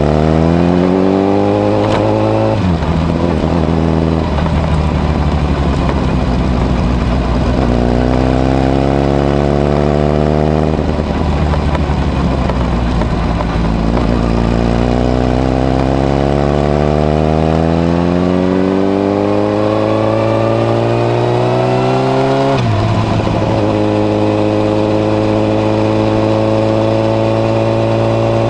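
Honda CBR1000RR (SC57) inline-four sport bike through a modified Moriwaki muffler with its baffle fitted, under way. The engine note climbs in pitch as it accelerates and drops at each upshift, three times, then holds steady near the end.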